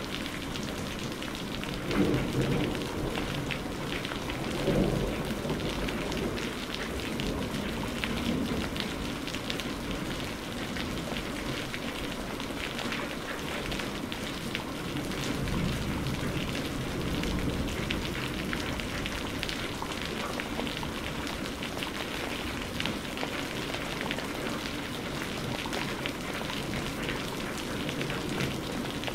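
Steady heavy rain falling on a surface, with many individual drops ticking through it. Low rumbles of distant thunder swell about two and five seconds in, then fainter ones later.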